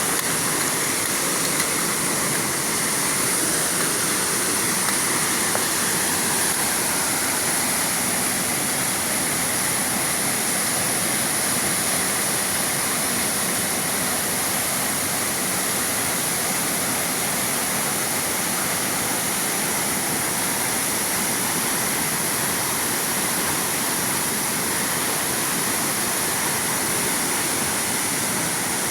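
Waterfall: a steady, unbroken rush of falling water, with a constant high-pitched hiss above it.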